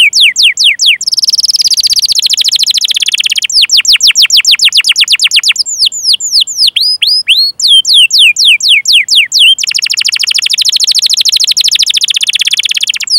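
Canary singing: quick runs of repeated downward-sliding 'cuit cuit' chirps alternate with two long, very fast rolling trills, one about a second in and one near ten seconds in.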